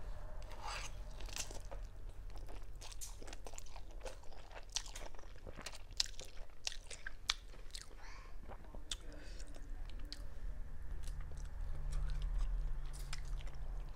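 Close-miked eating of instant cup noodles: chewing and slurping, with many irregular wet smacks and clicks.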